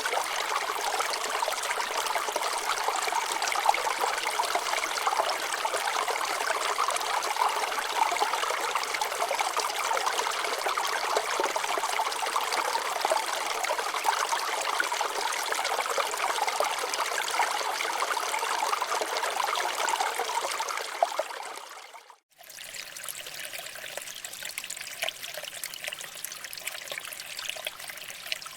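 Water flowing and trickling over rocks in a steady stream. About 22 seconds in it fades out for a moment and comes back softer.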